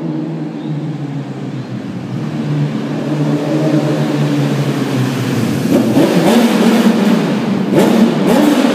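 2004 Honda CBR1000RR inline-four through a full carbon-fibre Scorpion exhaust, holding a steady note, then revved up twice near the end.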